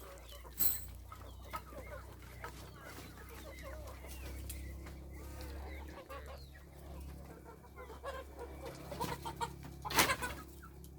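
Chickens clucking over a low steady hum, with a few sharp knocks, the loudest near the end.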